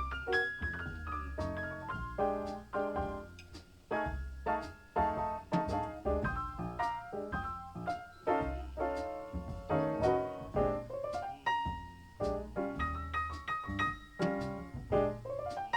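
Jazz piano solo from a CD recording, played back through ATC SCM20 loudspeakers and picked up by a microphone in the room, with quick runs of notes.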